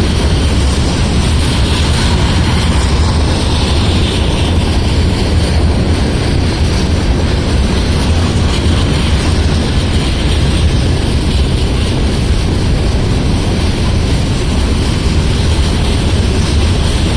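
Freight cars of a loaded rock train rolling past close by: a steady, loud rumble of wheels on rail.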